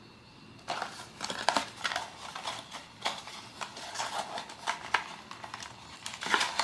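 Blind-box packaging being opened by hand: a dense run of crinkles, rustles and small clicks that starts under a second in, with a louder burst near the end.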